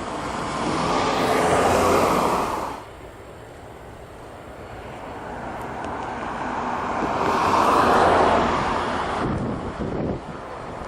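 Airliner jet engine noise swelling as an aircraft passes, cut off abruptly about three seconds in; a second pass builds slowly, peaks, and fades near the end, with wind buffeting the microphone.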